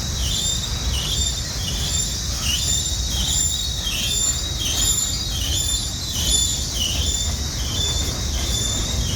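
Freight train rolling past with high-pitched steel wheel squeal that wavers about every half second, over a low rumble of the rolling cars. It is weird sounding.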